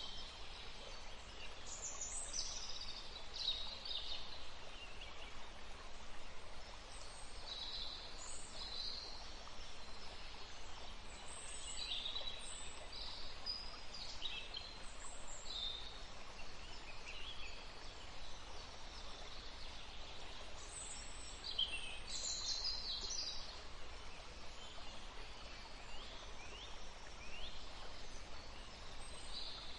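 Several songbirds singing and calling in a forest, with many short high chirps and whistles, some sliding in pitch, over the faint steady rush of a stream.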